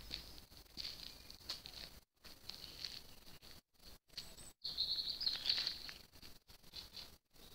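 Faint outdoor ambience with birds chirping high and thin, busiest a little past the middle, and one short high whistle about four seconds in. The sound drops out to nothing for a moment several times.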